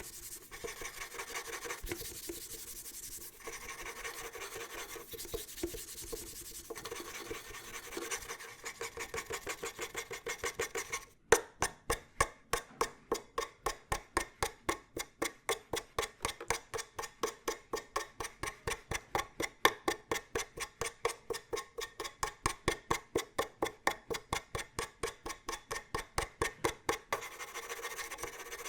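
Close-up ASMR scratching and rubbing on an object, fast and continuous. About eleven seconds in it switches to quick, even tapping at about four taps a second, which runs for roughly a quarter of a minute before the scratching resumes near the end.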